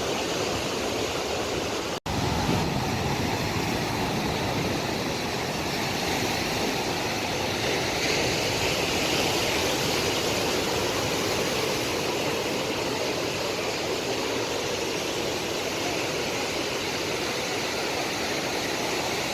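Steady rushing of sea surf washing on a beach. It cuts out for an instant about two seconds in, then carries on unchanged.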